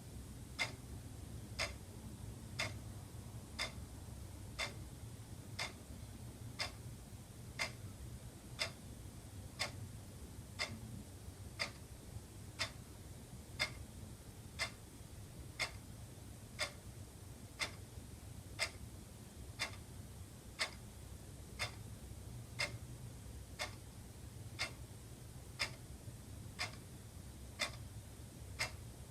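Wall clock ticking steadily, about one tick a second, over a faint low hum.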